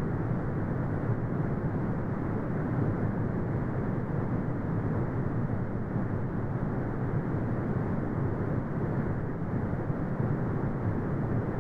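Continuous brown noise: a steady, deep rumbling hiss, strongest in the low end and cut off above the upper mids, with no changes.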